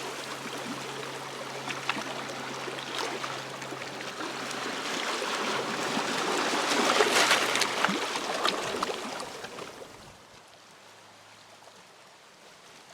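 A sea wave washing up a stony shore, swelling with a rattle of stones to a peak about seven seconds in, then falling away to a quieter hiss.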